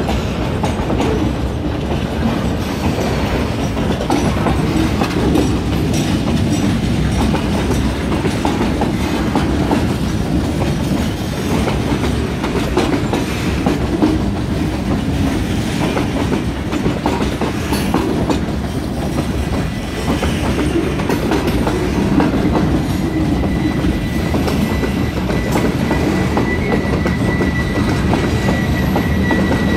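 Freight train's covered hopper cars rolling past a grade crossing: a steady rumble of steel wheels with continual clicking over the rail joints. A faint steady high whine joins in over the last several seconds.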